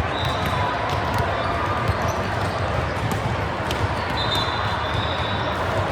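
Indoor gym game sound: a steady hall murmur with a ball bouncing and hitting in scattered sharp knocks, and a few short high squeaks, the clearest about four seconds in.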